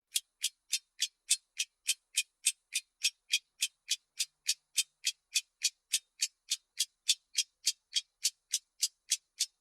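Clock ticking sound of a countdown timer: fast, even, crisp ticks at about three and a half per second.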